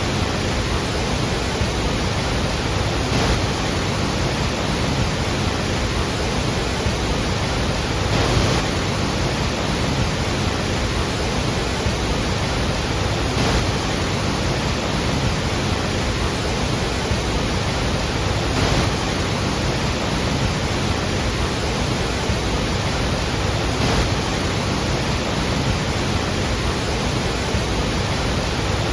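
Iguazú Falls: a large waterfall's falling water, heard as a loud, steady, even rush with no breaks.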